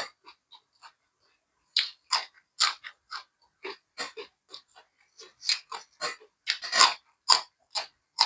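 Close-miked chewing of chicken larb with vegetables: wet mouth clicks and crisp crunches coming irregularly, several a second, with a short pause about a second in.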